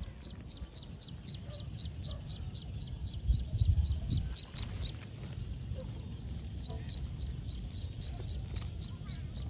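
A bird calling in a fast, even series of short high chirps, each dropping in pitch, about four a second, over a low rumble with a louder thump about three and a half seconds in.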